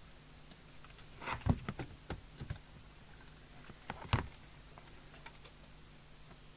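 Small clicks and taps of hand tools working on a CB radio chassis while added wiring is being removed: a quick cluster of clicks about a second in and one sharper knock about four seconds in, over a faint low hum.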